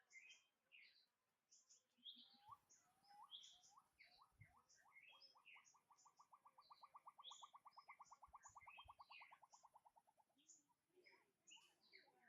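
Faint wild birdsong: many short, high chirps throughout, and one series of notes that starts about two seconds in and speeds up into a fast, even trill before stopping near the end.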